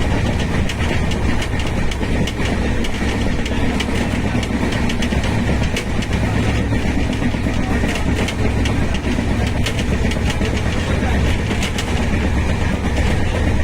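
Train running on the rails: a steady low rumble with frequent sharp clicks of wheels over rail joints.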